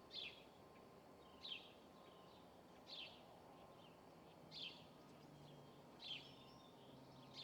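A bird calling, repeating a short, falling chirp about every one and a half seconds, with softer notes in between; faint.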